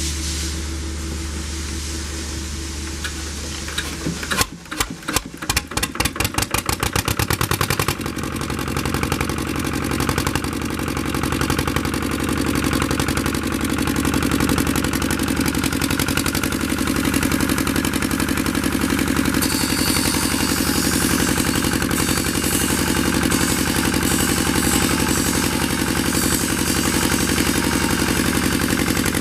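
Lister two-cylinder diesel engine of a generator set starting from cold: a steady low turning sound for about four seconds, then it catches with separate firing beats that quicken, and from about eight seconds in it runs steadily.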